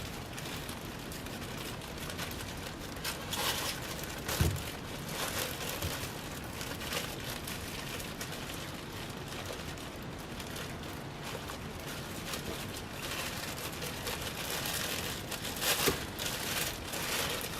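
Packing material crinkling and rustling while ceiling fan parts are handled, with a couple of small knocks.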